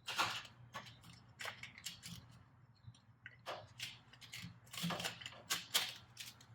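Irregular metallic clicks and knocks of turbo parts and tools being handled and fitted in the engine bay, about a dozen sharp taps spread unevenly.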